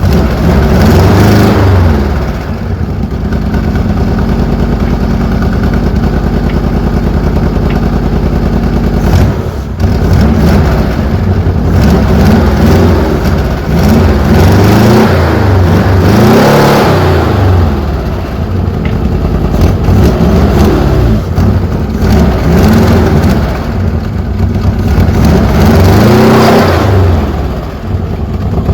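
Citroën GS air-cooled flat-four engine running and being revved again and again. Its pitch rises and falls about half a dozen times, with a short dip about nine seconds in.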